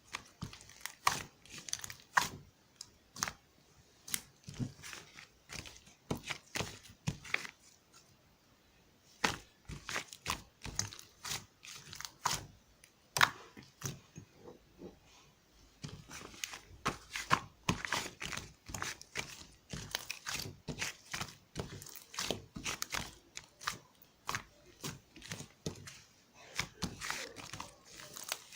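Slime being squished, folded and stretched by hand, giving irregular sharp clicks and crackling pops, with a short lull about eight seconds in.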